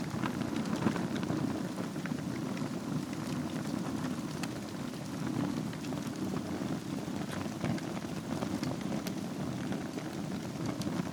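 Wood fire burning in a fireplace over glowing embers: a steady low rush of flame with irregular sharp crackles and pops scattered throughout.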